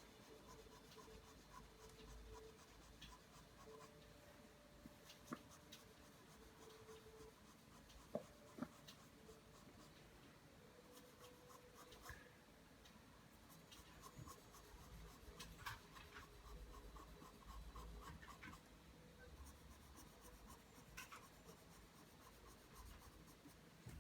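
Pencil drawing lines on paper: faint, continuous scratching strokes, with a few sharper taps about 5 and 8 seconds in.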